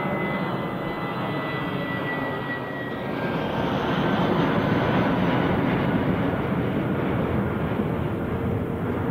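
Jet airliner passing close by. A high engine whine slides slightly lower in pitch and fades about three seconds in, as the broad engine noise swells and holds loud.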